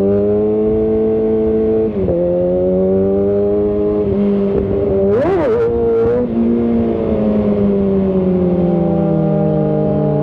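Inline-four sport bike engine under way, pulling up steadily and shifting up about two seconds in. About five seconds in it gives a quick sharp rev up and back down, then winds slowly down as the throttle eases off.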